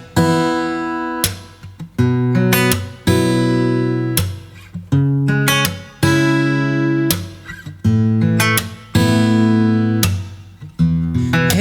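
Acoustic guitar playing a slow song introduction: chords strummed roughly every second or two, each left to ring and fade before the next.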